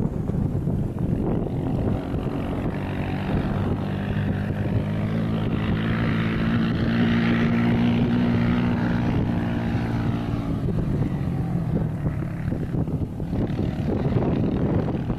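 An engine passing by: it grows louder over several seconds, is loudest about halfway through, then fades, over a rough wind-like rumble.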